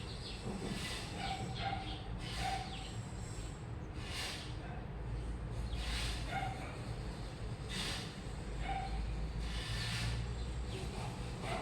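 Washing machine in its wash cycle: a steady low hum under a swish of water and tumbling laundry about every two seconds.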